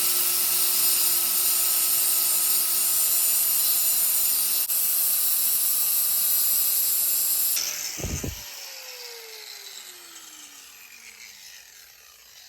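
Grinder grinding the head off a steel motorcycle chain link's pin, with a steady motor whine under the grinding noise. About seven and a half seconds in it is switched off and the whine falls slowly as the disc spins down; there is a short low thump just after.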